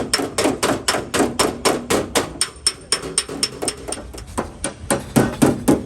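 Fast, even hammer taps on a car's steel body panel, about five a second, with a faint metallic ring: the dent is being worked out of the sheet metal in paintless dent repair.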